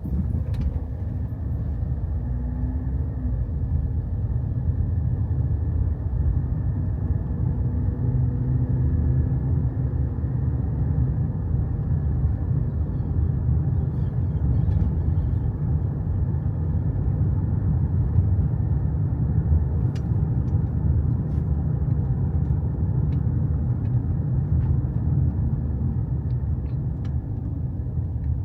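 A car driving, heard as a steady low rumble of road and engine noise, with a few faint ticks in the last third.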